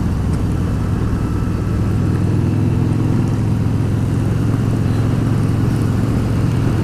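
Harley-Davidson V-Rod's liquid-cooled V-twin running steadily at an even cruising speed.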